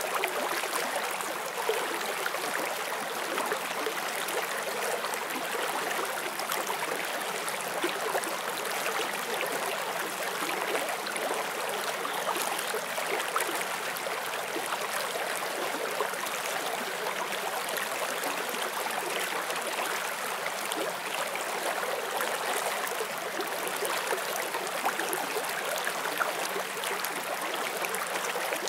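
Forest stream flowing steadily over rocks, a constant bright rush with fine splashing and trickling.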